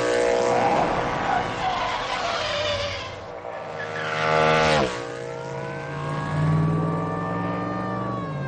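Indian motorcycle engine revving, its pitch rising and falling in a few swells, with one sudden drop about halfway through.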